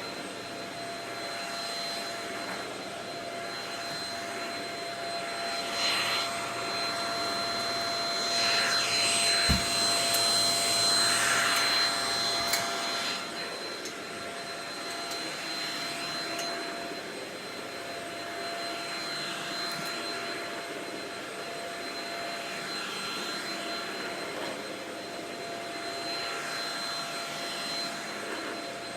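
Shark Rocket stick vacuum running with a steady high whine. It gets louder and rushier for a few seconds about a third of the way in, with one short knock, then settles back to its steady run.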